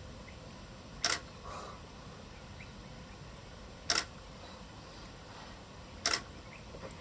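Camera shutter clicking three times, a few seconds apart, each a quick double click.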